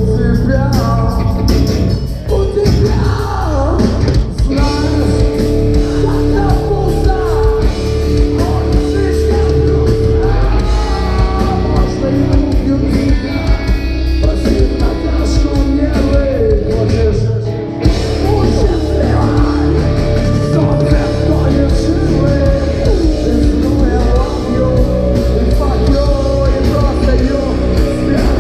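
Rock band playing live with vocals over loud distorted guitars, bass and drums, with a short dip in level about two-thirds of the way through.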